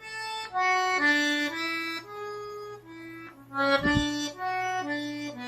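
Accordion playing a slow single-note melody, one held note after another, each about half a second long. There is a short low bass thump about four seconds in.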